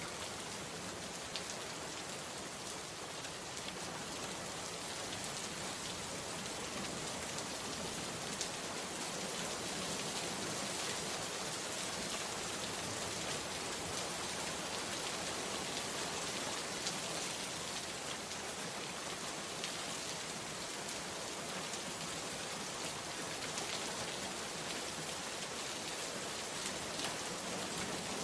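Steady rain falling, a dense even hiss with countless fine drop taps, growing slightly heavier over the first several seconds.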